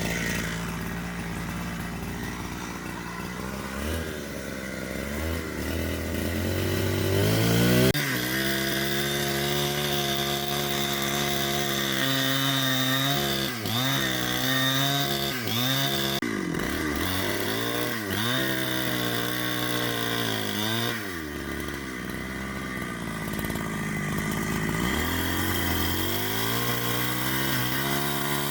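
Two-stroke chainsaw running and cutting wood, its engine pitch repeatedly dipping under load and climbing back as it is revved.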